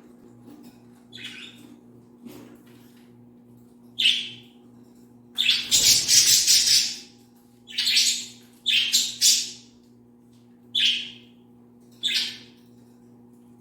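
Pet budgerigars giving short, harsh chirps and squawks, spaced one to two seconds apart. Around the middle comes a longer, louder noisy stretch of about a second and a half. A low steady hum runs underneath.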